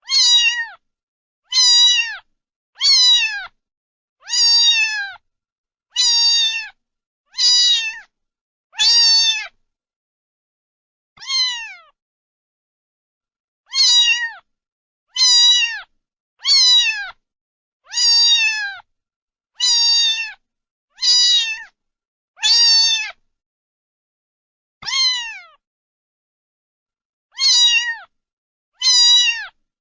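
Domestic cat meowing over and over, about eighteen short calls that each fall in pitch, roughly one every second and a half with a few longer pauses.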